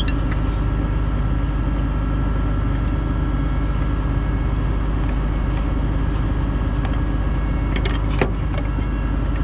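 Heavy tow truck's diesel engine running steadily during a wreck recovery, with one short knock about eight seconds in.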